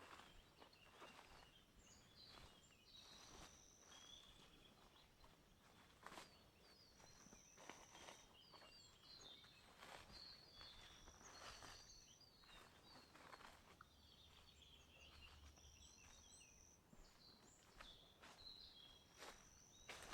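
Faint footsteps on a forest path, with a songbird repeating the same short song about every four seconds: a high held whistle, then a quick jumble of twittering notes.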